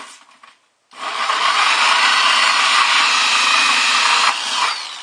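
Power drill with a hole saw cutting a hole through the bucket for a PVC outlet pipe: a short burst, then from about a second in a steady grinding cut, and near the end the drill winds down with a falling whine.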